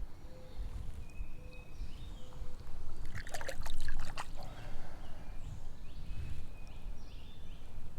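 Stream water running and trickling, with a short burst of splashing about three seconds in.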